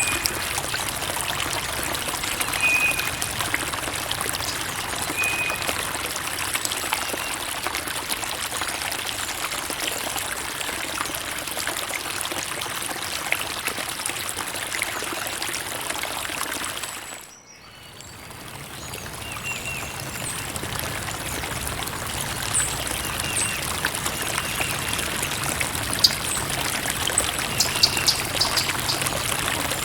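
Creek water trickling and running steadily. About two thirds of the way through it fades down almost to quiet for a moment and swells back up over a couple of seconds.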